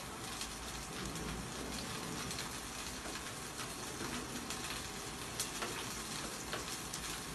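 Green peas with cumin and mustard seeds sizzling in hot oil in a pan, a steady frying hiss. A few light knife taps on a wooden chopping board can be heard.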